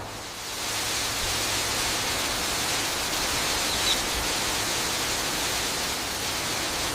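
Steady rushing water, an even hiss that swells in over the first half second and then holds level.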